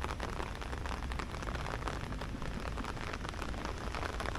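Steady rain falling, a dense patter of many small drops hitting surfaces.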